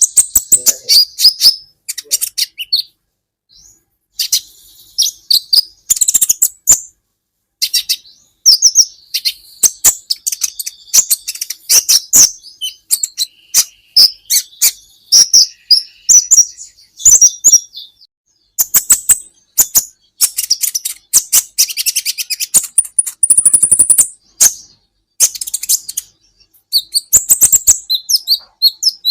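Olive-backed sunbird (kolibri ninja) singing: fast, high-pitched chirps and trills in bursts with short pauses, including one briefly held high note about two-thirds of the way through.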